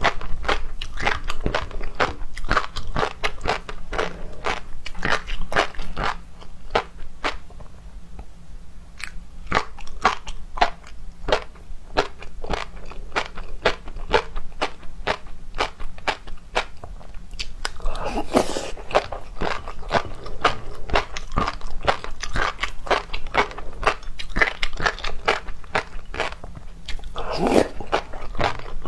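Close-miked chewing and biting of seafood, a steady run of sharp crunchy, wet clicks. Two longer, louder mouth sounds come about two-thirds of the way through and near the end.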